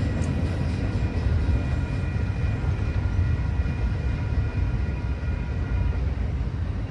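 A train led by a KiwiRail DX-class diesel-electric locomotive rolling past, a steady low rumble with faint high ringing tones that fade out about six seconds in.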